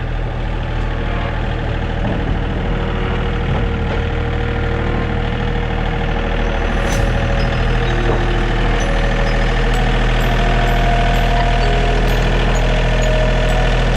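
Vehicle engine running steadily, slowly getting louder.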